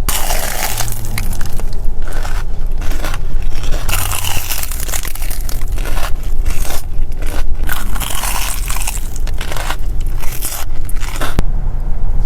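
Close-miked eating: crunchy bites and chewing of crisp food, many crunches in quick succession.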